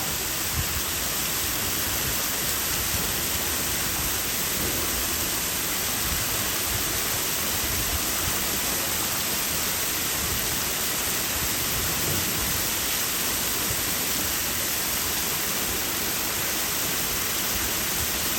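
Waterfall pouring steadily, a constant rush of falling water heard close by.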